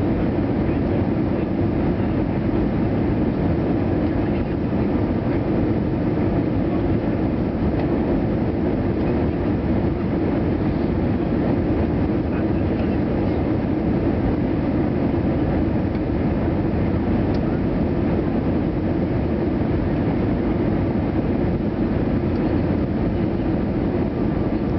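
Airbus A320 cabin noise: a steady, low rumble of engines and airflow with no change in level.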